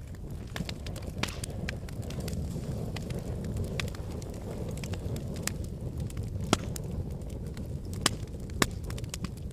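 Wood fire burning in a fireplace: a steady low rumble of flames with scattered crackles and pops, three sharp pops standing out in the second half.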